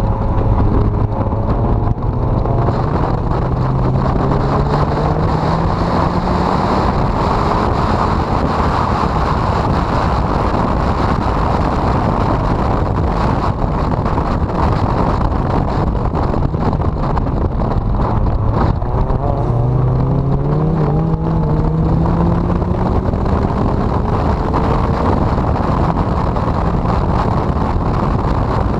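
Honda CRX four-cylinder engine pulling hard, its pitch rising twice as the revs climb, under a heavy rush of wind noise on the microphone.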